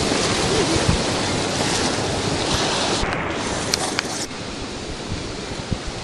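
Rushing whitewater of a river rapid around a raft, a steady hiss and roar with wind on the microphone and a few sharp splashes or knocks; it eases a little about four seconds in.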